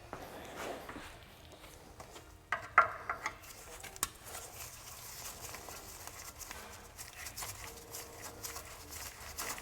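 Metal tools and parts clinking while parts are unbolted from a Humvee: a quick cluster of sharp clanks about two and a half seconds in, another single clank about a second later, and quieter handling and scraping between.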